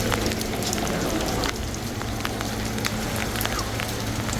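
Steady heavy rain falling, with many sharp ticks of individual drops striking close by.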